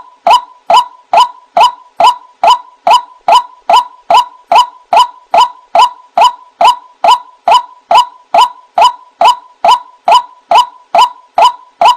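White-breasted waterhen (ruak-ruak) giving its monotonous 'wak' call, short clipped notes repeated evenly a little over twice a second. It is a bird-catcher's lure recording of the call.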